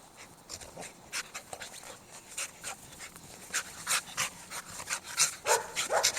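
Norwegian Elkhounds panting in quick, short breaths, growing louder toward the end, with a brief louder dog sound about five and a half seconds in.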